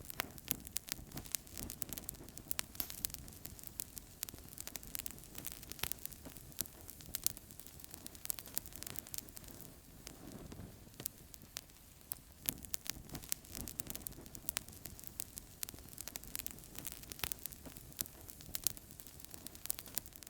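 Fire crackling in a fireplace: many sharp, irregular pops and snaps over a steady low noise of burning.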